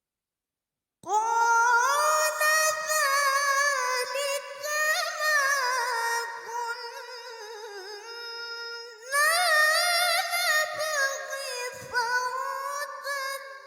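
A woman's voice chanting Quranic recitation (tilawah) in a high register, drawn out in long melodic phrases with wavering ornaments on the held notes. It begins about a second in after silence, breaks off briefly near the middle and starts again strongly.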